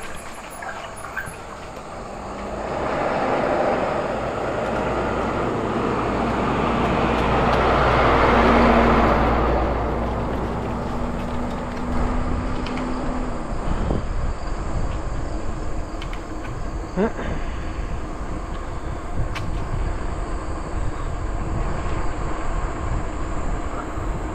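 A large work truck's engine and tyres rise and fade as it passes, with a steady engine hum, loudest about nine seconds in. After it, steady rumble and rushing noise continues.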